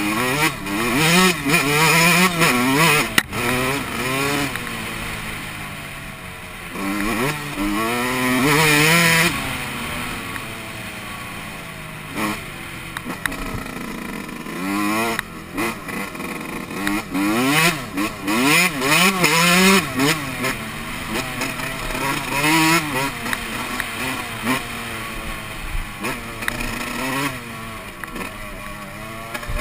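Yamaha YZ125 two-stroke dirt bike engine being ridden, revving up and dropping back over and over as the throttle is worked, with a few calmer stretches of lower, steadier running.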